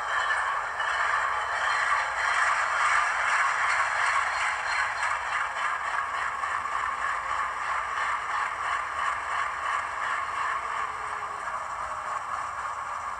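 ESU Loksound 5 decoder in an HO scale WDM2 model playing a recorded Alco 251C V16 diesel idle through its small speaker, with little bass. The prime mover revs up a couple of seconds in and then eases back down. It loops like this to mimic the rhythmic hunting idle of a Woodward-governor-fitted WDM2.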